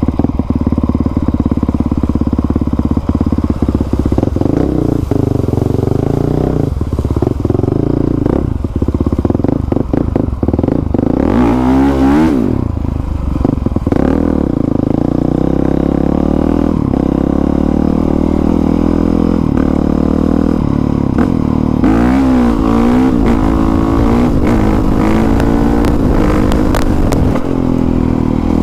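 2020 Honda CRF450R's single-cylinder four-stroke engine, fitted with a new exhaust, running under way as the throttle is rolled on and off. The pitch swings sharply up and down twice, near the middle and again about two-thirds through.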